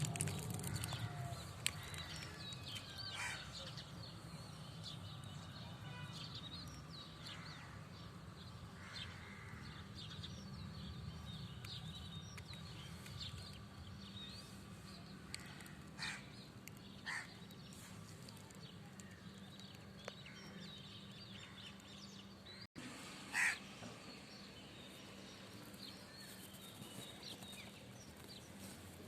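Birds calling now and then over a faint steady background hum, with short calls scattered through and a louder call a few seconds before the end.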